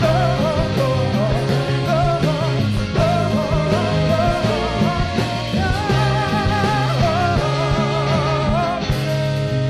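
Live soul band playing with electric guitar, bass and drums, with sung or guitar melody lines wavering over the groove; about nine seconds in it settles onto a held chord.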